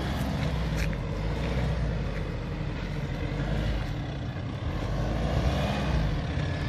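Four-wheel-drive vehicle's engine running steadily with a low hum, with a few sharp clicks in the first second.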